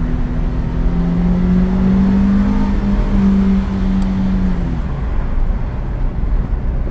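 Car engine and exhaust running with a low rumble, its pitch climbing slightly and then dropping away about five seconds in.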